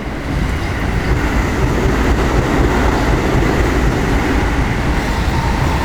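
Keio Line electric train running past on the rails. The sound grows louder in the first half-second, then stays loud and steady, with a faint high whine over the rail noise.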